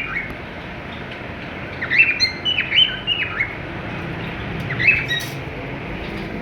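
Small caged parrots chirping: a quick run of short, falling chirps about two seconds in and one more near five seconds, over steady low background noise.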